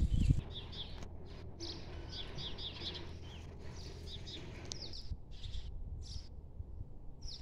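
Small birds chirping: many quick, high notes in runs, over a low background rumble. There is a brief loud low rush at the very start.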